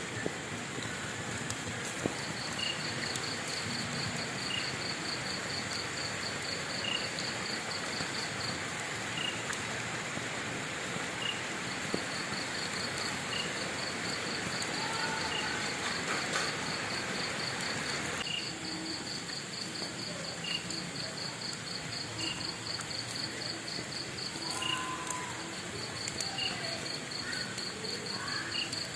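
Insects calling: one gives a fast pulsed trill that stops for a few seconds about eight seconds in and then resumes, while another chirps once every second and a half or two. Beneath them runs a steady hiss with a few faint pops.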